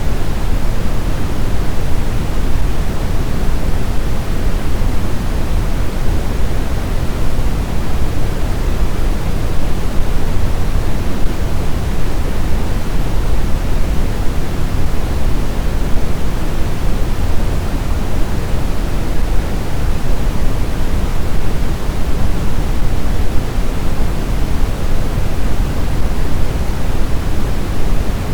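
Blizzard wind noise, a steady, even rush heaviest in the low end, without distinct gusts or clicks.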